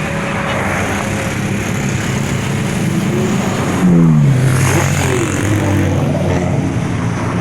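Supercar engines running as cars drive past in a convoy. About four seconds in, one passes close: its engine note gets louder, then drops in pitch.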